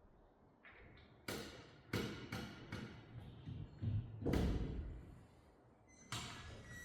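A string of irregular knocks and clanks from a garage jack and axle stands being handled under a car, the loudest a heavy thud about four and a half seconds in.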